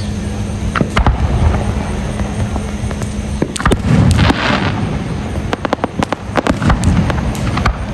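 Fireworks going off: a string of sharp bangs and pops, with a hissing crackle about halfway through and a quicker run of pops in the second half.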